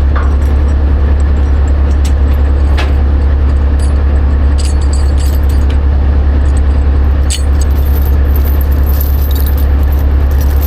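Heavy diesel vehicle running steadily: a loud, constant low drone with frequent light rattles and clicks over it.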